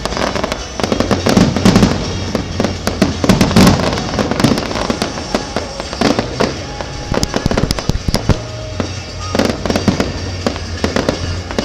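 Aerial fireworks bursting in quick succession: a dense run of bangs and crackles, loudest in the first few seconds.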